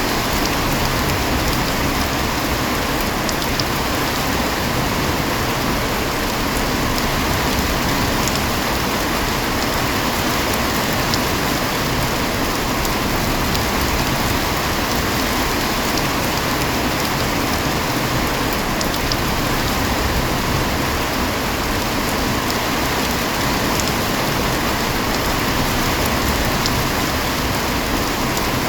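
Steady heavy rain falling, an even hiss that does not let up, with a few faint scattered drop taps.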